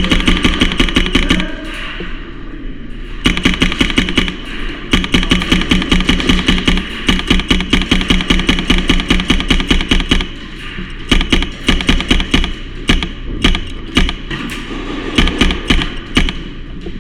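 Airsoft gun firing on full auto in several long bursts of rapid clicking shots with short pauses between them. The longest burst runs about five seconds in the middle.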